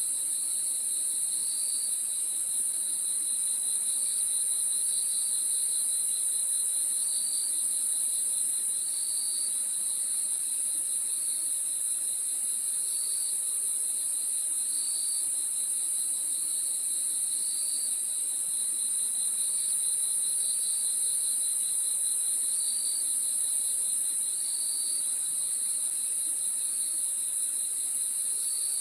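Crickets chirping: a steady, high-pitched insect chorus, with a pulsing trill below it and short chirps repeating about once a second.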